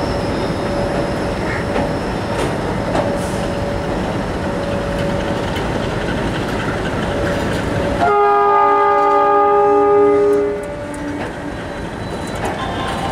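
Indian Railways passenger coaches rolling slowly along a platform: a steady rumble and clatter of wheels with a thin whine. About eight seconds in, a locomotive horn sounds one long blast of about two and a half seconds.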